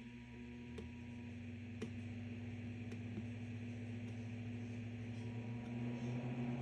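Crane evaporative humidifier's fan running with a steady hum that grows gradually louder, as the unit spins up after its touch button is tapped to a higher speed. A few faint ticks sound over it.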